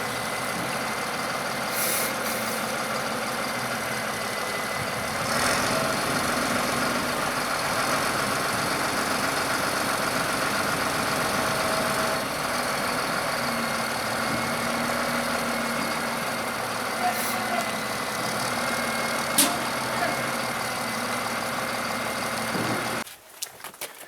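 Tractor engine running steadily, with a faint steady whine over it; the sound cuts off suddenly near the end.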